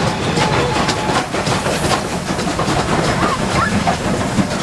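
Steam locomotive passing by, with rapid repeated clattering beats over a steady low rumble.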